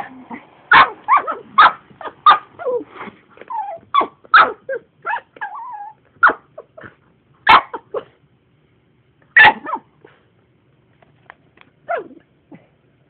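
Black poodle barking at a vacuum cleaner, a quick run of sharp barks with a few whining calls, then single barks every couple of seconds.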